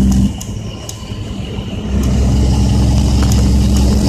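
Dump truck's Caterpillar C10 diesel engine heard from inside the cab. The engine note drops away just after the start and pulls again about two seconds in, a gear change with a load on. Sharp rattles and knocks come from the truck on a rough road.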